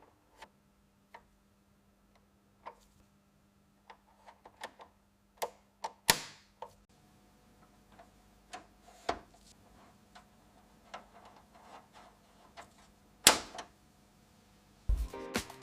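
Irregular light clicks and taps of small hard objects being handled, with two louder knocks about six and thirteen seconds in, over a faint steady hum.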